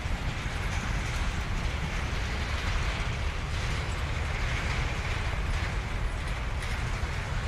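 Freight train of loaded hopper wagons rolling past: a steady low rumble with rail and wheel noise over it.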